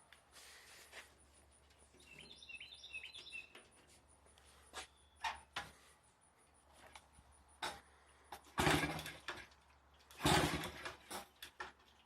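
Kawasaki KE100 two-stroke single being kicked over, two short bursts of engine noise about eight and a half and ten seconds in as it fires briefly without catching. Faint clicks and a short bird chirp before that.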